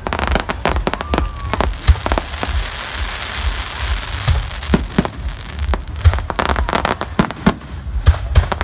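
Fireworks display: aerial shells bursting in a rapid, irregular series of bangs, with a spell of dense crackling about two seconds in.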